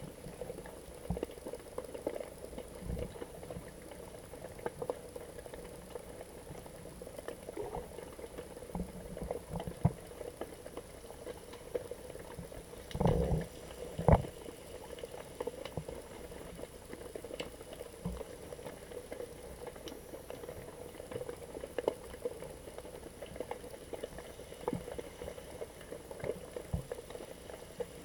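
Muffled underwater sound through an action camera's waterproof housing: steady bubbling with scattered small clicks and pops. There is a louder burst of about a second some 13 seconds in, followed by a sharp knock.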